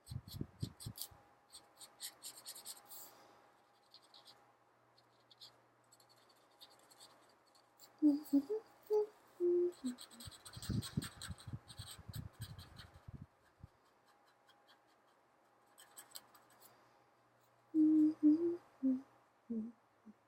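Felt-tip marker scratching in quick strokes across paper while coloring in. A person hums a few short notes twice, about eight seconds in and again near the end, and there are some low knocks on the table around the middle.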